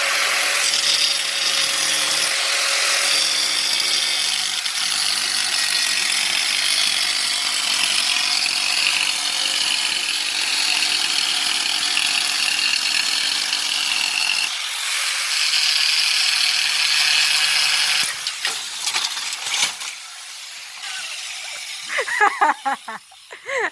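Angle grinder with a thin 5-inch diamond blade cutting toughened glass: a loud, steady, high-pitched grinding whine that dips briefly about two-thirds of the way through and stops abruptly about 18 seconds in. Scattered clicks and crackles follow, and a voice is heard near the end.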